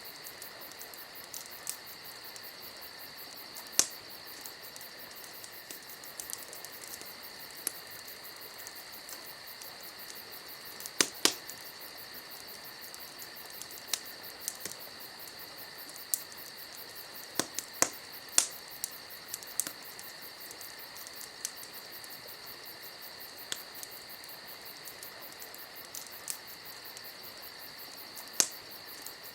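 Campfire crackling, with sharp scattered pops, the loudest a few seconds apart, over a steady chorus of crickets chirping.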